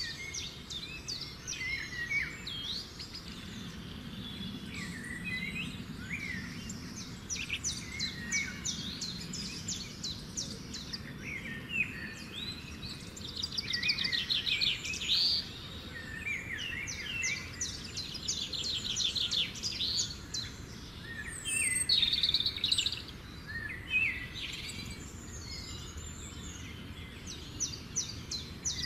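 Several birds chirping and singing, with quick rapid trills now and then, over low steady background noise.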